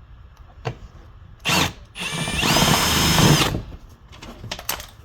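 Power drill drilling out a rivet on a golf cart body. It gives a short burst, then runs for about a second and a half with a whine that steps up in pitch, followed by a few light clicks.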